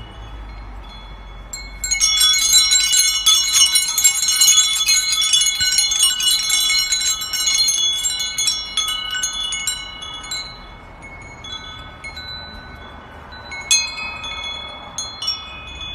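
Metal wind chimes jangling: a dense run of ringing strikes begins about two seconds in and thins out after about eight seconds, with a fresh cluster of strikes near the end.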